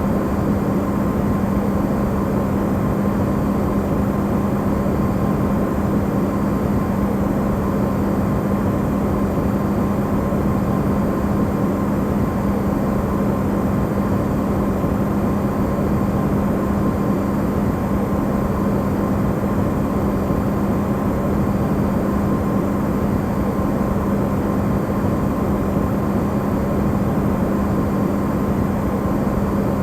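Electrolux refrigerator running, recorded amplified: a steady, unchanging rush of noise with a constant low hum.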